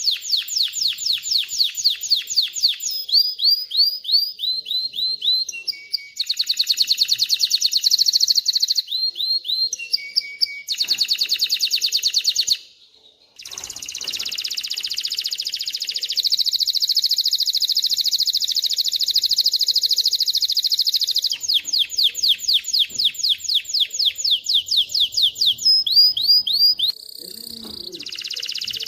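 Male domestic canary singing: phrases of repeated sweeping notes alternate with long, fast rolling trills, with a brief pause a little before halfway.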